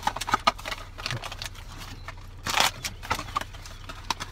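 Close-up chewing of a fish sandwich: wet lip-smacks and mouth clicks repeating irregularly, with a short rustle about halfway through.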